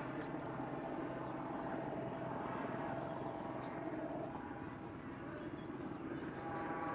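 Steady, distant drone of an aircraft engine in flight, holding an even pitch.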